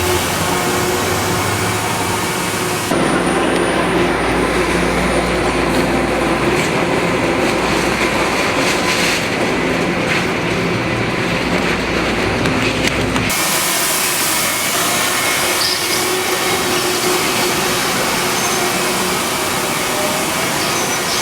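BART rapid-transit train running, a steady rumble and hum. The sound changes abruptly about 3 seconds in and again about 13 seconds in, where the recording cuts between shots.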